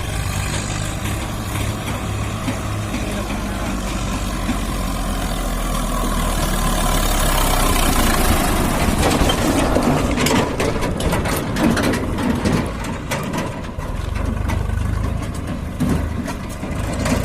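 Swaraj 744 FE tractor's three-cylinder diesel engine running steadily, with a burst of knocks and clatter in the middle.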